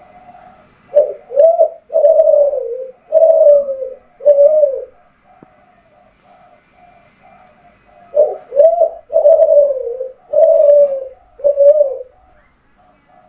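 Kelantan-strain spotted dove (derkuku) cooing in two phrases. Each phrase is two short coos followed by three longer coos that fall in pitch. Fainter cooing carries on between the phrases.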